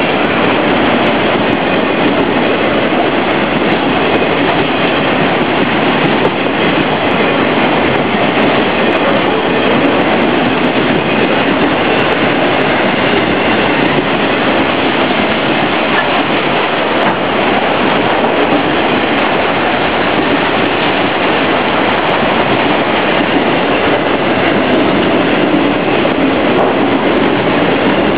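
CSX autorack freight train rolling past a grade crossing: steady rumble and clatter of its wheels on the rails. The crossing's malfunctioning electronic bell gives a faint warbling "space ship" sound over it.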